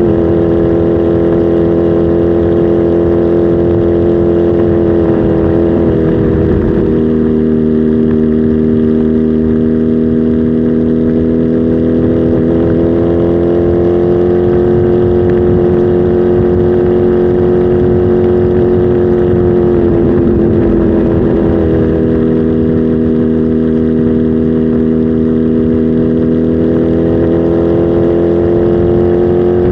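Kawasaki Z H2 SE's supercharged inline-four engine running at a fairly steady speed. The engine note dips briefly twice, about six seconds in and again about twenty seconds in, then climbs slowly back up.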